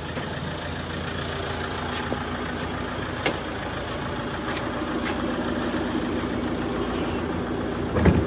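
Tata Safari Storm's 2.2-litre diesel engine idling steadily after repair. A few sharp clicks sound over it, and a louder knock comes near the end.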